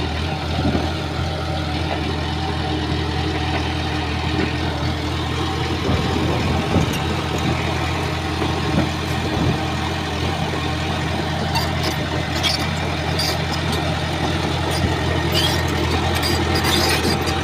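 Shantui bulldozer's diesel engine running at a steady pitch. About two-thirds of the way in, scattered sharp clicks and cracks join it.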